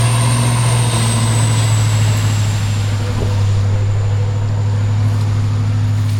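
Heavy off-road truck engine running at a steady speed, a strong low hum with a high whine above it that slowly falls.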